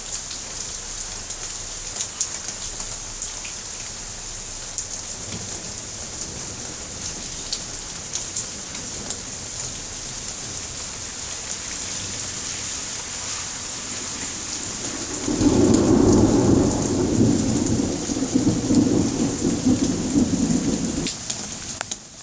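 Heavy rain falling steadily as a hiss, with many small drop ticks close to the microphone. About fifteen seconds in, a loud low roll of thunder rumbles for about six seconds.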